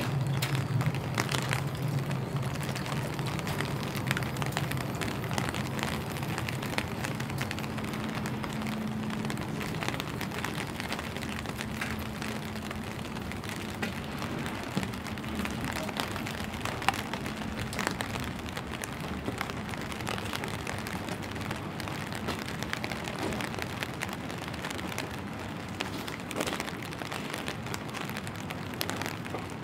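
Steady rain falling on pavement and buildings, with scattered louder drips. A low hum is heard for the first few seconds, then fades.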